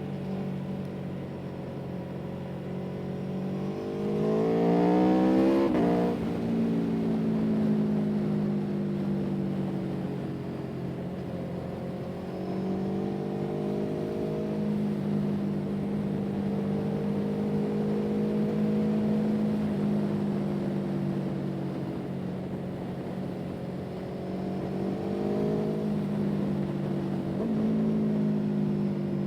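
Motor vehicle engine running under way. Its revs climb steeply about four seconds in and drop suddenly just before six seconds, as at a gear change, then rise more gently and dip again near the end.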